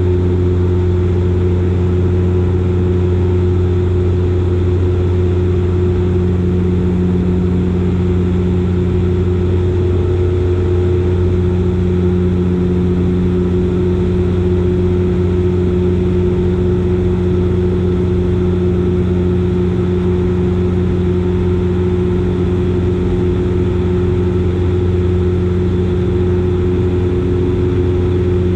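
Dash 8 Q400's Pratt & Whitney PW150A turboprop engines and six-blade propellers running steadily in flight. This gives an even, unbroken drone with a deep hum and a higher steady tone, as heard inside the passenger cabin.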